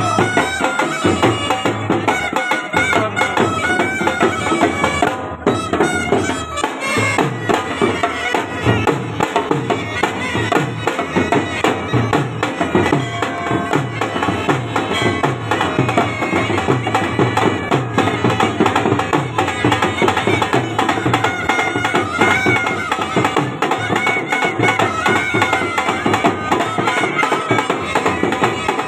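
Haryanvi folk band music: a reedy wind instrument plays a wavering melody over fast, steady drumming.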